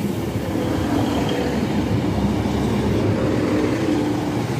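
Northern diesel multiple unit running past close by along the platform: steady engine and wheel-on-rail noise.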